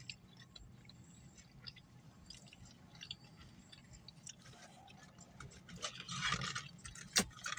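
Faint chewing and mouth sounds of a person eating, with small scattered clicks. The sounds get louder about six seconds in, followed by a sharp click.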